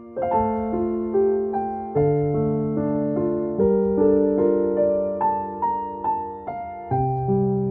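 Soft, slow piano music: gentle notes struck about every half second over held low chords that change every couple of seconds.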